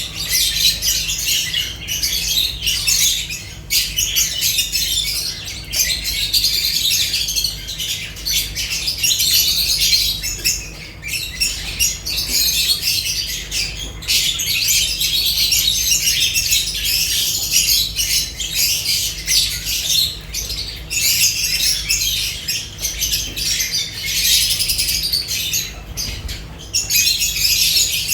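A flock of lovebirds chattering and squawking without pause, in busy high-pitched calls.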